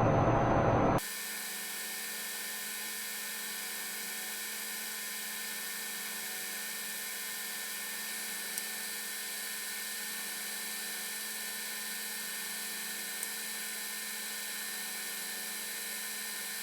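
A louder rushing noise cuts off abruptly about a second in. It leaves a steady electrical hum made of many faint, even tones, with two tiny clicks.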